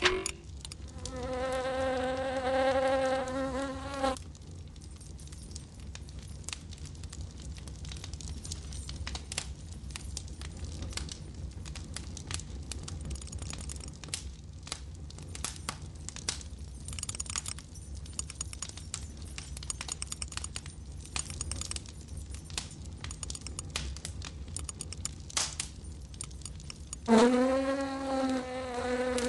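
Buzzing of a small flying insect, a steady, cartoon-style hum that lasts about three seconds near the start and comes back near the end, sliding up in pitch as it begins. In between, a long stretch of faint, rapid irregular ticks and crackles over a low steady hum.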